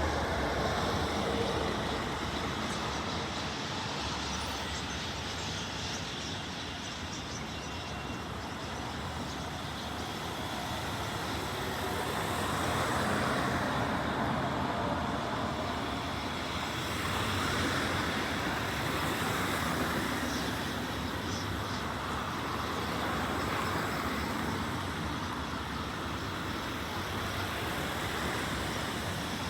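Steady road traffic noise, louder twice as vehicles pass, about halfway through and again a few seconds later.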